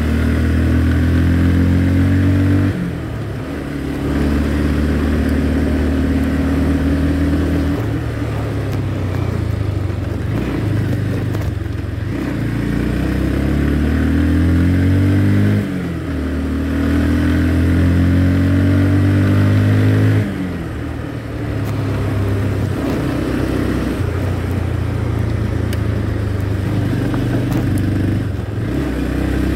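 Motorcycle engine running under way, its note holding steady for several seconds at a time. The level and pitch drop briefly a few times as the throttle eases off.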